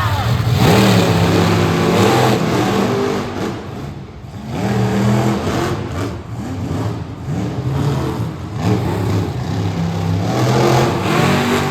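Monster truck engines revving hard, the pitch rising and falling again and again, with a brief lull about four seconds in.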